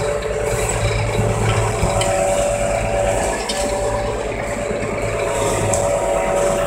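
Tractor engine running steadily with an even low pulse, shortly after a cold start.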